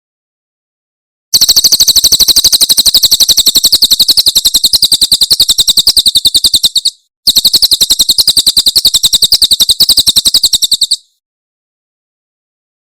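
Cililin bird's 'tembakan' song: a rapid, machine-gun-like trill of sharp high notes, many per second. It starts about a second in, breaks briefly around the middle, resumes, and stops near the end.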